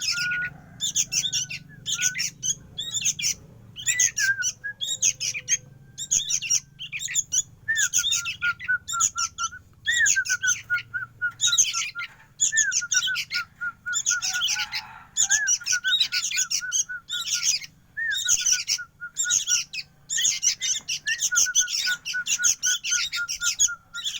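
Young bird chirping in rapid, repeated bursts of shrill calls, barely pausing, with a thinner run of quick, even peeps underneath.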